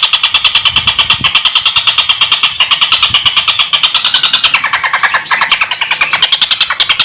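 Stork-billed kingfisher (tengkek buto) giving its rapid cackling call, a fast run of harsh notes at about ten a second, with a brief change in pitch about five seconds in.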